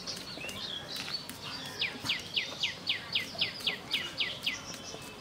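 A bird singing a quick run of about a dozen falling whistled notes, roughly four to five a second, starting about two seconds in and stopping near the end, over softer bird chirps.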